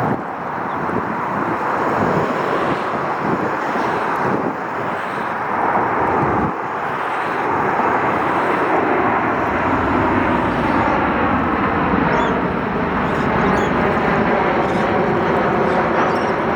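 Jet engines of a Boeing 737-800 (CFM56-7B turbofans) on final approach, passing low: a steady, loud roar whose tone begins to sweep and swish in the second half as the aircraft goes by.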